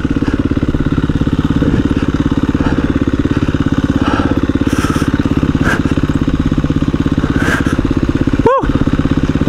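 KTM 350 EXC-F single-cylinder four-stroke dirt bike engine running steadily at low revs in an even pulse as the bike creeps down a loose hill.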